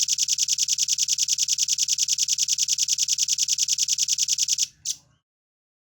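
Velvet-fronted nuthatch calling in a fast, even trill of sharp high notes, about ten a second, for nearly five seconds. The trill stops abruptly and is followed by one short separate note.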